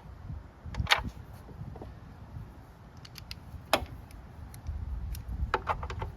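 A few sharp clicks and small knocks from a part and hand tools being handled while a small fuel shut-off valve is fitted to a go-kart engine. The loudest clicks come about a second in and near four seconds in, with a cluster of lighter ticks near the end.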